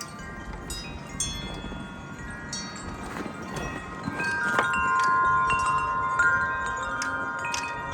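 Wind chime rung by gusty wind: scattered strikes with long ringing tones, growing louder and fuller about halfway through, over a low rumble of wind.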